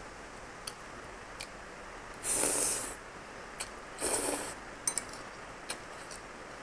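Eating spaghetti: two short slurps about half a second each, a couple of seconds apart, with a few small mouth clicks between them.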